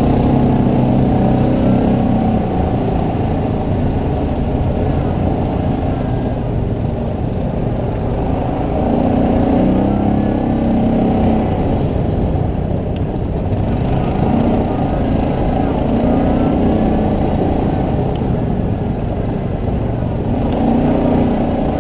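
ATV engine running under way, a steady buzzing drone whose pitch and level swell and ease off several times as the throttle is worked.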